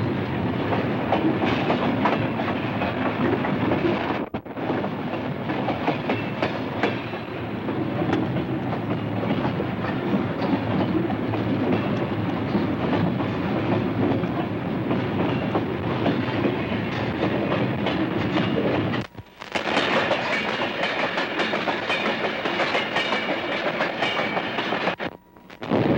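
Freight train running on the rails, heard up close from aboard a moving car: a loud, steady rolling rumble and rattle. The sound drops out briefly three times, near 4, 19 and 25 seconds in.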